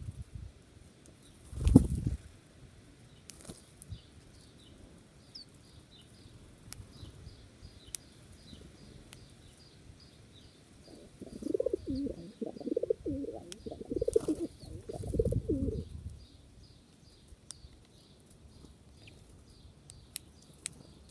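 Birds: a sudden loud flutter of wings about two seconds in, a small bird giving a long run of short high chirps, and a low wavering cooing, typical of a pigeon or dove, for about five seconds past the middle.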